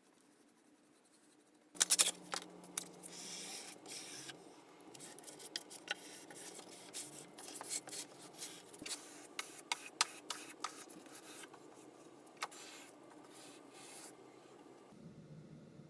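Hand rubbing and scraping on a wooden tool chest, with many irregular small clicks and taps, starting about two seconds in.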